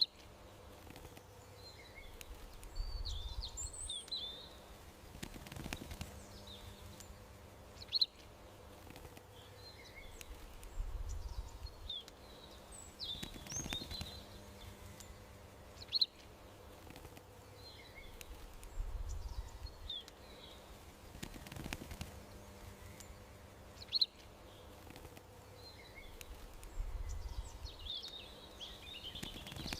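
Small songbirds chirping and twittering, with a sharp high chirp every eight seconds and the whole pattern repeating at that interval, over a faint steady hum.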